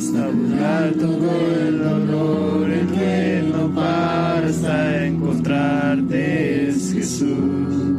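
Spanish-language worship chorus sung by voices together over steady guitar accompaniment. The singing line runs until about seven seconds in, then the instruments carry on alone.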